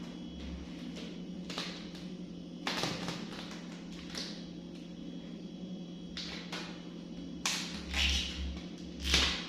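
Plastic food containers and lids being handled: short scrapes and clicks now and then, the loudest near the end, over a steady low hum.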